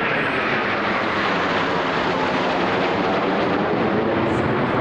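Aircraft flying low overhead: a steady, loud roar whose pitch slowly falls as it passes.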